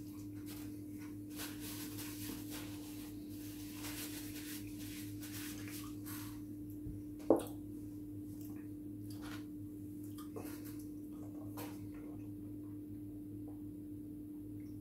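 Close-miked chewing and wet mouth sounds of a person eating, over a steady low hum, with one sharp knock about halfway through.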